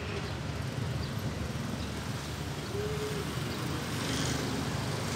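Low, steady rumble of a diesel-hauled train moving slowly away in the distance, with a short faint tone about three seconds in.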